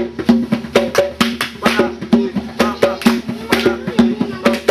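Drums played in a quick, steady rhythm of sharp strokes, about four to five a second, with ringing lower and higher tones.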